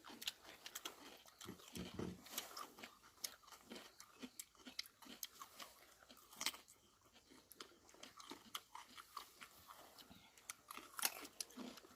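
Faint, irregular clicks and crackles, with a few louder ones about six and eleven seconds in.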